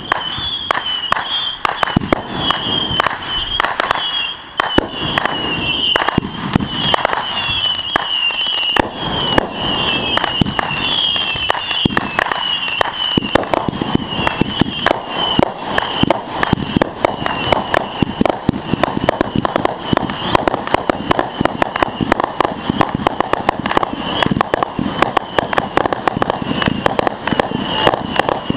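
Fireworks going off in rapid succession: a dense, unbroken run of crackling pops and bangs. A high warbling whistle rides over them for the first half and then fades.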